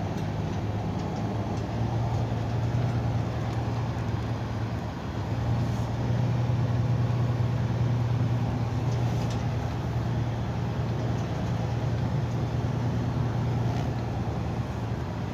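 Truck engine running with a steady low drone, a little louder from about halfway through.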